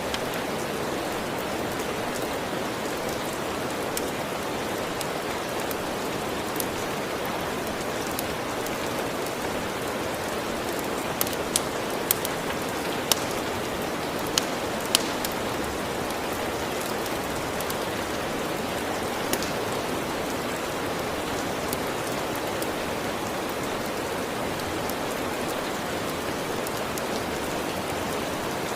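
Steady rain, with a few sharp pops from a crackling wood fire, most of them in a cluster a little before the middle.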